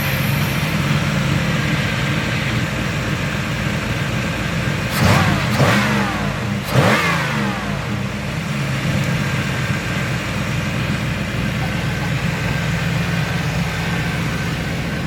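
1992 Camaro's 5.0 L 305 TBI small-block V8 idling just after starting, with three quick throttle blips that rise and fall around the middle, then settling back to a steady idle.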